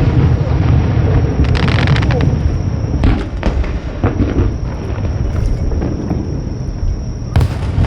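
Aerial fireworks shells bursting overhead: repeated booms over a continuous deep rumble, with a dense spell of crackling about two seconds in and another sharp burst near the end.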